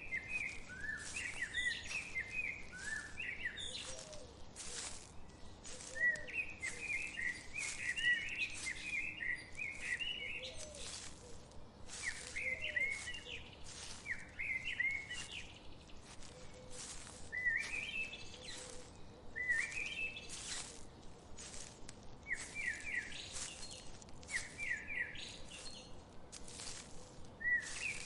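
Songbird singing short, quick warbling phrases, one every two to three seconds, over a steady patter of brief sharp ticks.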